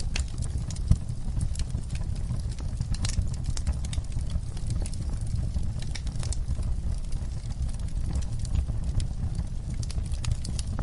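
Wood fire crackling: irregular sharp crackles and pops over a steady low rumble, with one louder pop about a second in.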